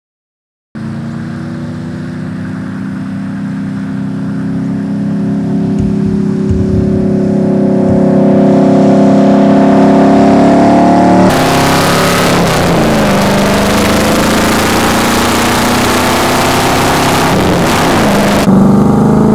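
Shelby Cobra's 427 big-block V8 running as the car drives, cutting in after a moment of silence and slowly rising in pitch and loudness. About eleven seconds in it becomes a close, rough engine note under heavy rushing wind noise, its pitch dropping and climbing again twice. Near the end a steady, rising engine note returns.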